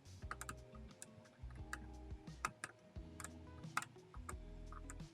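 Quick, irregular metal clicks of a center-driven numbering machine being worked by hand: the plunger and pawls snap as the number wheels advance. Background music plays underneath.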